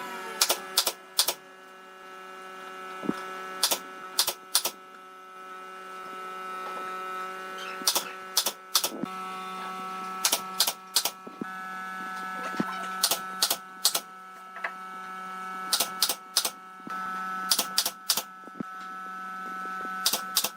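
A steady mechanical hum with several tones, shifting in pitch twice, with sharp clicks and knocks coming in quick clusters of two or three.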